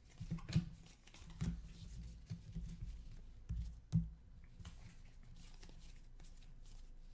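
Basketball trading cards handled by hand, slid and flipped through one by one: soft rustles and light ticks, with a sharper tick about four seconds in, growing fainter in the last few seconds.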